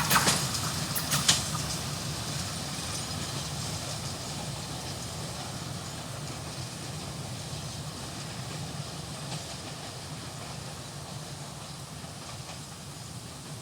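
Train passing, with a few sharp clacks of wheels over rail joints in the first second or so, then its low rumble fading steadily as it moves away.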